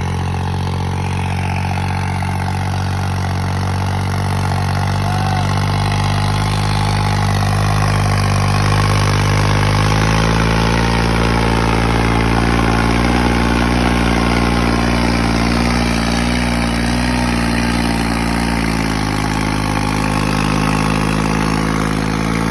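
New Holland tractor's diesel engine running steadily under load, pulling a 90-disc harrow, its pitch shifting a few times.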